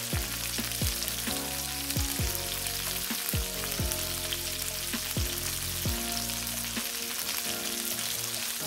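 Green beans frying in melted butter and oil in a skillet, with a steady sizzle.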